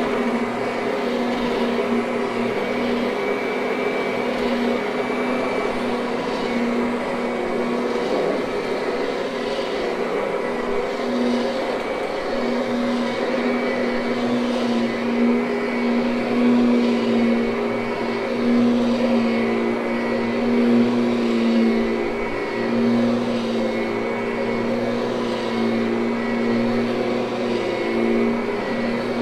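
Kirby direct-air upright vacuum cleaner running steadily on carpet. Its motor hum holds a steady pitch, with a hiss of air that swells and eases every couple of seconds.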